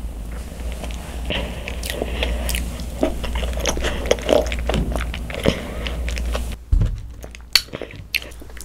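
Close-miked biting and chewing of a fat macaron (ttungkaron), its crisp shell crackling in many small clicks. There is a brief knock about two-thirds through.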